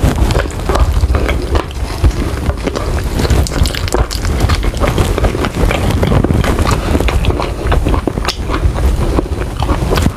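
Close-miked chewing and biting of sauced chicken wings, with irregular smacking clicks from the lips and teeth.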